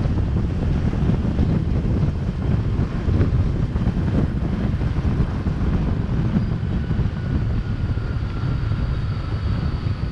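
Wind rumbling on the microphone of a moving motorbike, mixed with the noise of its engine and the surrounding traffic. A faint steady whine joins about six seconds in.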